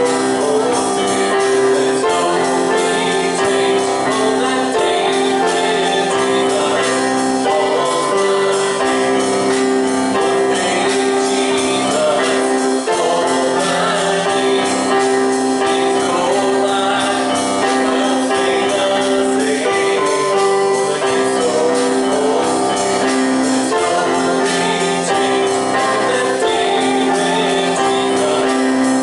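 Live gospel worship music: a band playing long held chords with a steady beat of light percussion, and singing over it.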